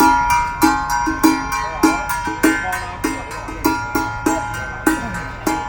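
Traditional Taiwanese temple ritual percussion: a drum and ringing metal percussion struck in a steady, slightly uneven beat of about two strokes a second.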